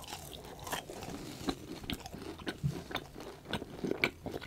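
Close-miked chewing and biting of fast food: a steady run of irregular crunches and clicks from the mouth.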